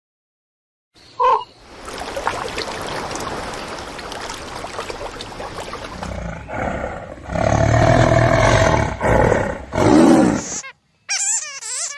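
A big cat roaring: after a second of silence and a short blip, a stretch of background hiss gives way about halfway through to a series of loud, deep roars. Near the end a different, wavering high-pitched sound begins.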